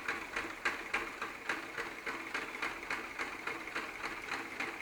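Electromagnetic piston engine running, with a steady, even clicking of about three to four strokes a second.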